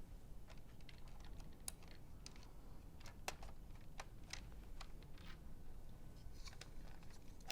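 Faint, irregular clicks and taps of LEGO Technic plastic parts being handled and pressed together, a few clicks a second at uneven spacing.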